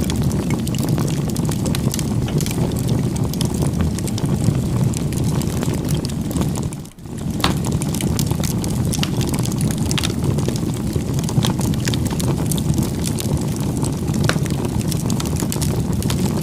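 Wood fire burning: a steady low rumble of flames with scattered sharp crackles and pops. The sound drops away for a moment about seven seconds in, then resumes.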